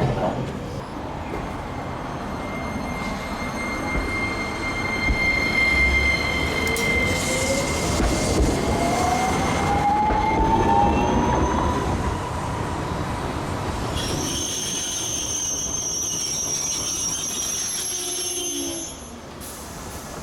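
Hiroshima Electric Railway 5100-series low-floor tram running: a whine rising in pitch from its traction motors as it gathers speed, followed in the second half by high-pitched wheel squeal for about five seconds before it fades.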